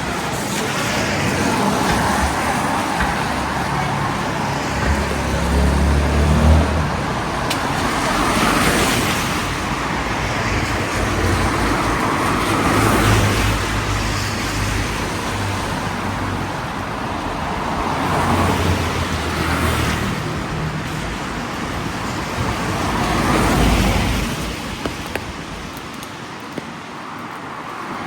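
Road traffic on a rain-wet street: several cars pass one after another, each a swell of tyre hiss and low engine hum that rises and fades, over a steady wet background hiss.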